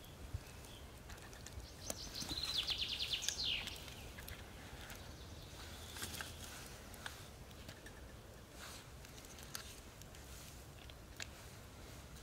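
A songbird sings one fast trill of repeated high notes that ends in a quick downward flourish, about two seconds in, over quiet forest ambience with scattered small clicks.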